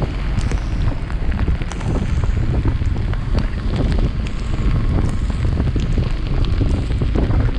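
Heavy wind buffeting a chest-mounted action camera on a moving motorcycle: a dense, low rumbling roar with road and engine noise underneath, broken by many scattered sharp ticks.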